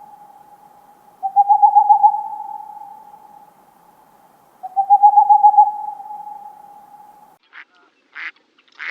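An animal calling three times in identical long, even-pitched calls a few seconds apart, each fading out slowly; a few short, sharp calls follow near the end.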